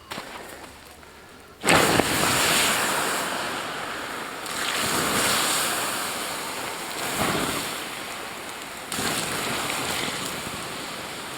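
Bacon and eggs sizzling in a hot pan on a camp cooker. The sizzle starts suddenly about two seconds in, then swells and eases, with a fresh surge near the end.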